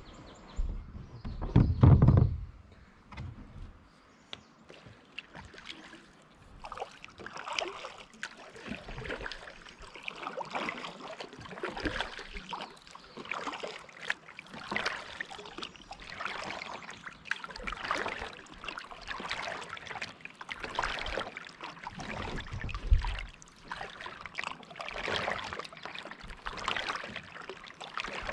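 Kayak paddle strokes on calm lake water: the blade splashing in and dripping, in a steady rhythm of about one stroke every second and a half. A low thump comes about two seconds in.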